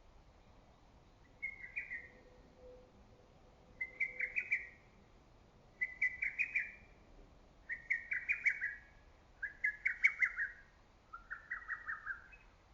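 Lesser cuckoo singing its song six times, about every two seconds. Each phrase is a quick run of staccato whistled notes lasting about a second.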